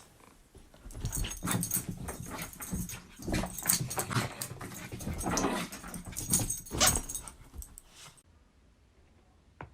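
A pet animal making noises, with many short clicks and knocks mixed in, that cut off abruptly about eight seconds in.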